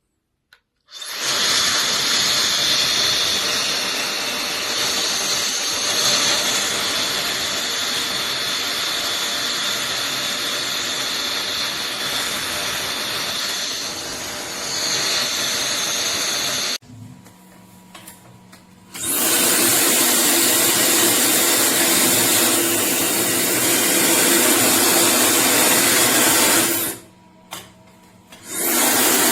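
High-speed hair dryer blowing: a steady rush of air with a high whine. It cuts off abruptly past the middle, starts again a couple of seconds later, then stops and restarts briefly near the end.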